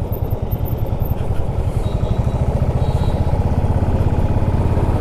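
Motorcycle engine running on the move, a steady low rumble that grows a little louder over the first couple of seconds.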